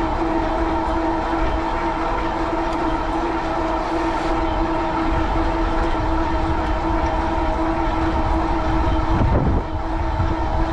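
An e-bike running at steady cruising speed: a constant high whine, typical of a geared rear hub motor under pedal assist, over a low rumble of tyres and wind on the microphone.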